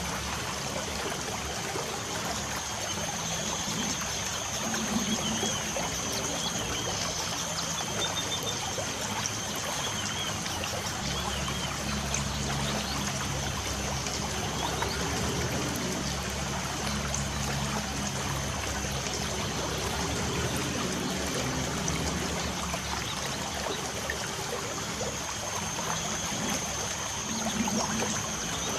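Light rain falling steadily as an even hiss of water. A few short bird chirps come now and then, over a thin, steady high tone.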